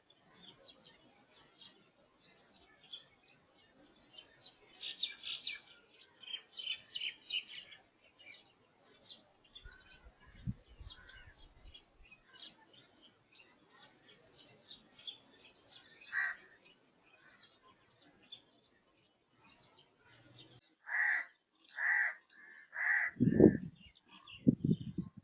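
Birds chirping and twittering, with quick high trills, then three loud harsh calls in a row near the end, followed by a few low thumps.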